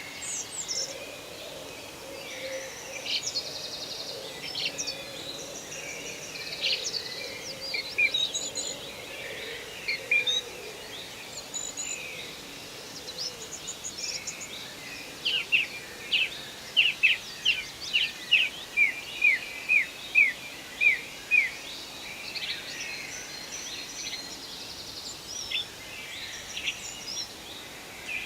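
Forest birdsong: several birds chirping and whistling over a steady background hiss. About halfway through, one bird repeats a short falling note roughly twice a second for several seconds.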